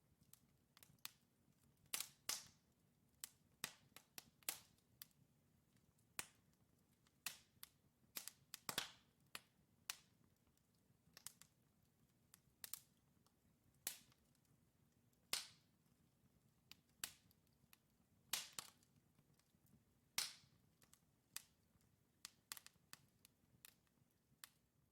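Wood fire crackling in a fireplace: burning logs giving irregular sharp pops and snaps, about one or two a second, over a faint low hiss.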